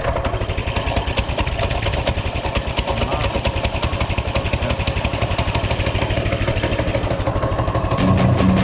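Coleman CT200U-EX mini bike's 196 cc single-cylinder four-stroke engine running steadily, with a fast, even firing beat.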